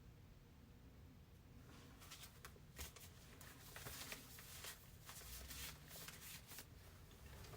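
Near silence: room tone, with faint scattered clicks and rustles from about two seconds in.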